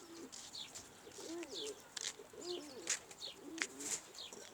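Domestic pigeons cooing, repeated low coos that rise and fall, with many short high chirps over them.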